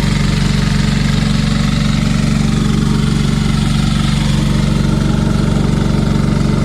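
Engine running steadily at a constant speed, with an even low drone and no change in pitch.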